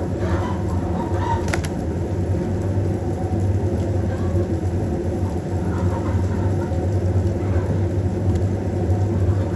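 Steady low mechanical hum at an even level, with faint bird calls over it and a single sharp click about a second and a half in.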